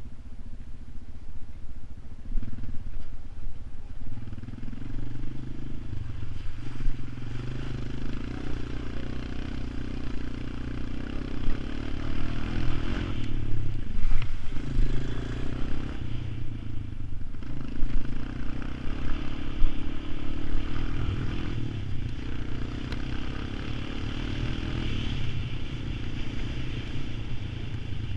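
All-terrain vehicle engine running as it is ridden, the engine note shifting up and down with the throttle, with short dips about halfway through.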